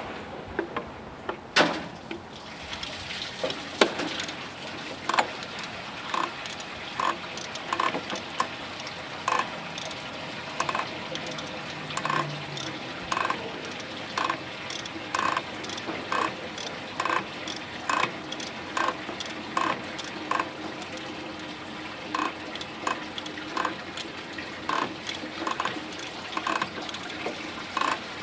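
Liquid trickling and dripping steadily into a container, with evenly spaced drips about one and a half a second.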